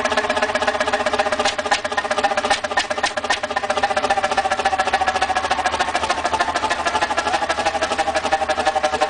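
A large engine running at a steady pace with a fast, even clatter of mechanical knocks.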